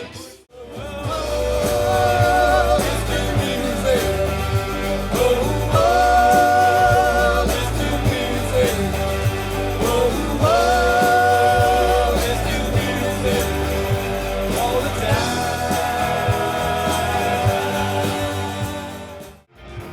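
Live rock band playing a song, with drums and bass under long held notes, likely singing. The sound drops out briefly just after the start and again near the end, where separate clips are spliced together.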